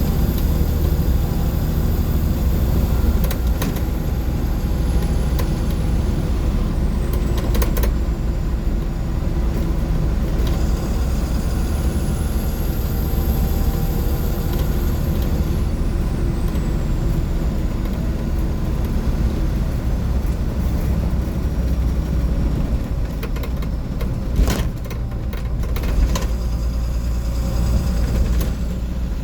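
2004 Blue Bird 3800 school bus's International DT466E inline-six turbodiesel running with a steady low rumble, heard inside the bus. A faint high whine rises and falls twice, and two short knocks come near the end.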